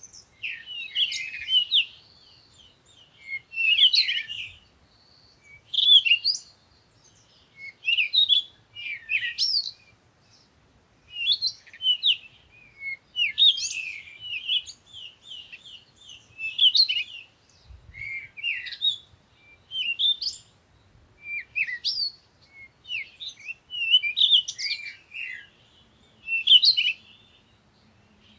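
Songbirds chirping: quick bursts of short, sweeping high notes, a new burst every second or two.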